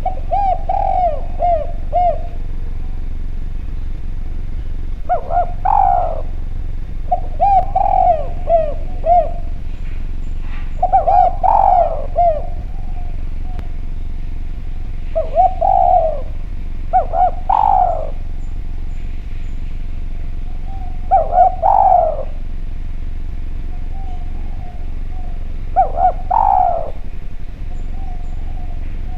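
Spotted dove (derkuku) cooing: short phrases of several falling coos, repeated about every two to five seconds, over a steady low hum.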